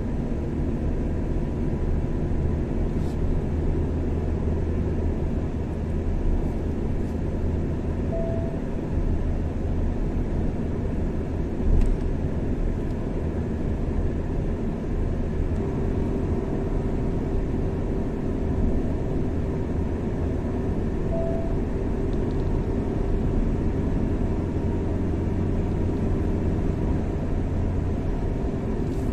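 A car driving at steady speed: a continuous low engine hum and tyre rumble on the road, with a single knock about twelve seconds in.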